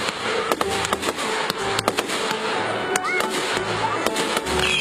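Aerial firework shells bursting and crackling, with many sharp cracks in quick succession and a couple of short rising whistles about three seconds in. Music plays underneath.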